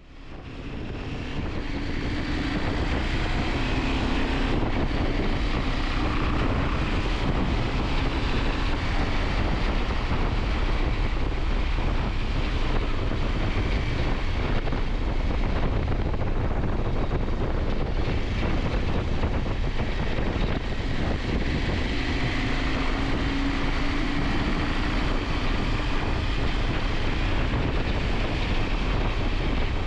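Riding noise from a KTM 890 Adventure at speed: wind rushing over the microphone, with the parallel-twin engine running underneath and its pitch drifting up and down a little. The sound fades in over the first second or two.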